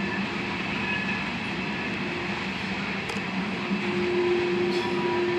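Loaded covered hopper cars of a freight train rolling past with a steady rumble of wheels on rail. A steady low tone joins the rumble about two-thirds of the way through.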